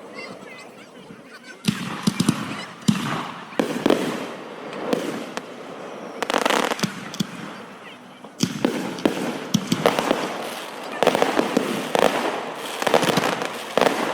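Fireworks display: aerial shells bursting with sharp bangs and crackles, scattered at first, then a rapid run of bursts from just past the middle.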